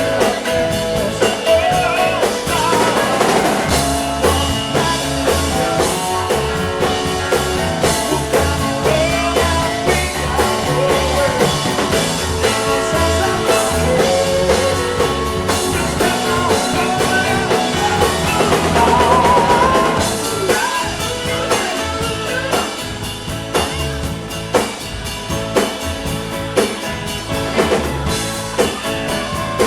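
Live blues-rock band playing an instrumental passage: drum kit, bass and guitar, with a lead line of bent, wavering notes.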